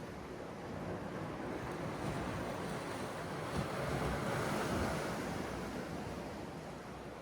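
Sea surf: a wave swells and breaks, loudest about halfway through, then washes back and fades.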